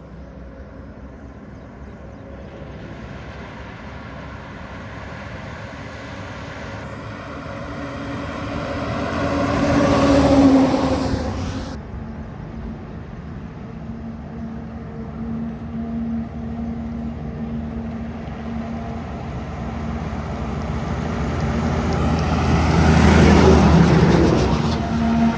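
Heavy Tata diesel trucks passing by one after another: engine and tyre noise builds to a peak about ten seconds in and cuts off abruptly, then a second truck's engine hum grows louder to another peak near the end.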